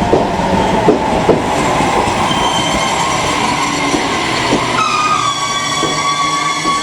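Electric commuter train running at a station, with wheels clacking over rail joints and a steady rumble. From about five seconds in, a whine of several high tones joins the rumble.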